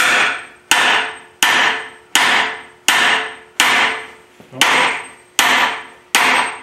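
Hammer blows driving a new bearing into the CAT D4D engine block through a driver tool: about nine evenly spaced metallic strikes, roughly one every 0.7 seconds, each ringing briefly and dying away before the next.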